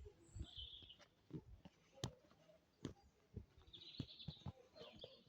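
Quiet room tone with faint bird chirping twice, about half a second in and about four seconds in, and scattered light knocks.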